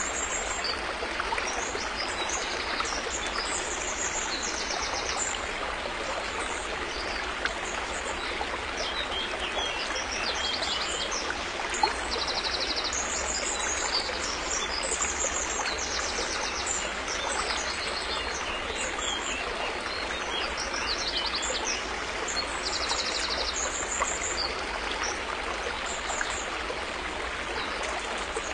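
River water flowing steadily, with small birds chirping and giving short high trills every second or so above the rush of the water.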